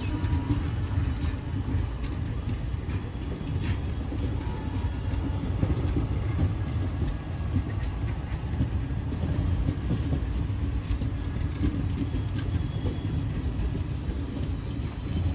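Indian Railways passenger coaches rolling past: a steady low rumble of steel wheels on the rails, with scattered clicks and clanks from the wheels and running gear.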